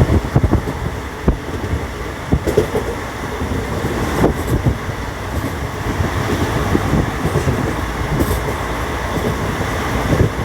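Steady low rumble and rattle of a moving vehicle, with irregular knocks scattered through it.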